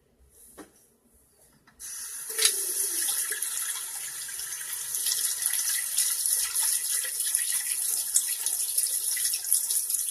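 Running water starts abruptly about two seconds in, a steady gushing hiss.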